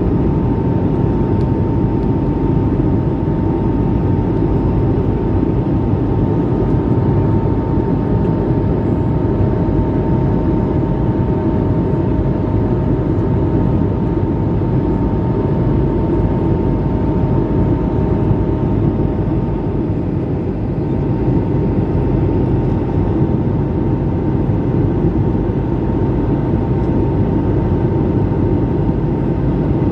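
Steady cabin noise of an Airbus A220-300 climbing out after takeoff, heard inside the cabin: an even rush from its Pratt & Whitney PW1500G geared turbofan engines and the airflow, with two faint steady tones humming through it.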